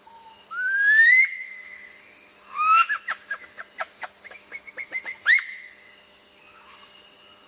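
Bird calls: a loud rising whistle about half a second in, then a run of about ten short, sharp notes, and a second upswept whistle a little past the middle.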